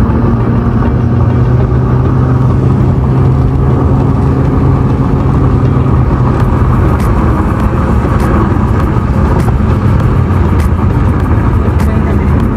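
A motor vehicle's engine running steadily, heard from on board along with road noise, with sharp rattling ticks from about six seconds in.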